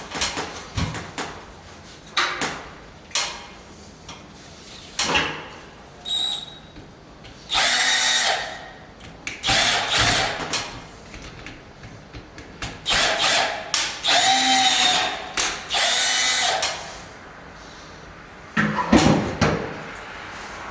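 Power drill running in about five short bursts in the middle, its pitch rising and falling with each run, as if driving screws. Sharp knocks and clicks come between the bursts, with a louder cluster near the end.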